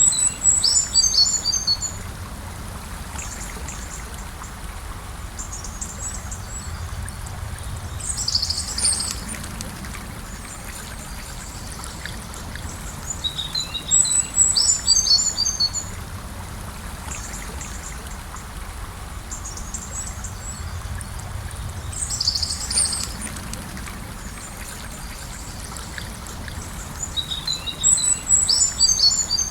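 Gentle river flowing with a steady rush of water, and a songbird singing short, high phrases of quick notes about every seven seconds, two different phrases taking turns.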